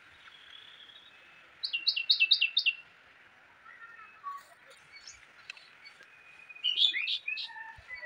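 A bird calling: a quick run of about five sharp, falling chirps, then another burst of chirps near the end.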